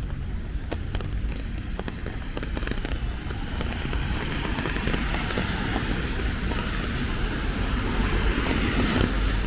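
Rain ticking in scattered drops, then a vehicle approaching on a wet road, its tyre hiss and engine rumble building over the second half.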